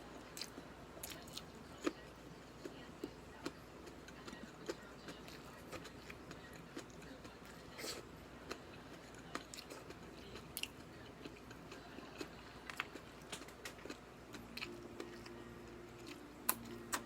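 A person eating close to the microphone: irregular chewing and biting sounds, small wet clicks and smacks at uneven intervals, a few sharper clicks standing out. A faint steady low hum joins near the end.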